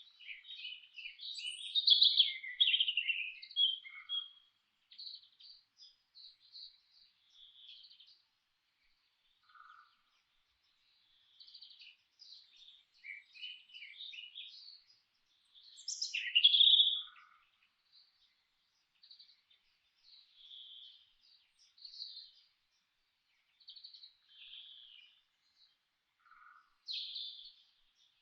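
Songbirds chirping and singing in short bursts of high chirps and trills, with a few lower single notes now and then; busiest in the first few seconds and again around the middle.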